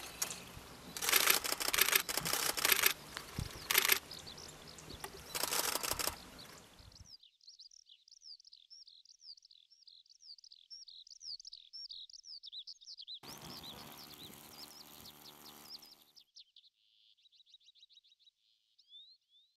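Loud rough noise bursts from wind and handling for the first several seconds. Then a small songbird sings a rapid, varied twitter of high notes, interrupted for a few seconds by another burst of rough noise.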